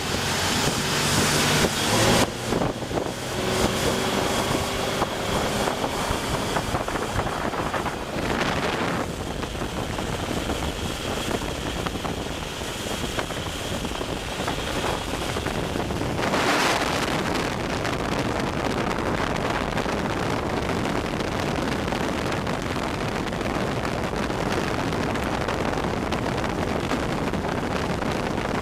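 A Sea Ray 240 Sundeck's 5.0-litre MerCruiser V8 sterndrive running underway, with wind buffeting the microphone. Louder gusts of wind noise come about a second in, at around eight seconds and at around sixteen seconds.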